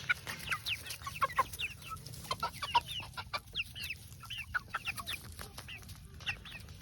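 Young chickens cheeping: many short, overlapping chirps, several a second, over a low hum.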